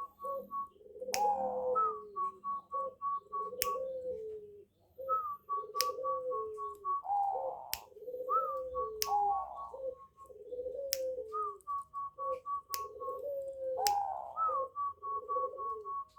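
Zebra doves (perkutut bangkok) cooing over and over: each song is a higher opening note followed by a quick run of short, even notes, with lower sliding coos between. Sharp clicks sound every second or two throughout.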